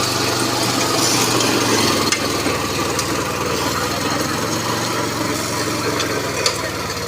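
Swaraj Code mini tractor's 12 hp petrol engine running steadily, its note changing about two seconds in.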